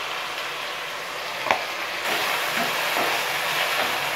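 Chopped tomatoes and shallots sizzling in oil in a stainless steel kadai. About a second and a half in there is one sharp tap, and from about two seconds in a wooden spoon stirs them and the sizzling grows louder.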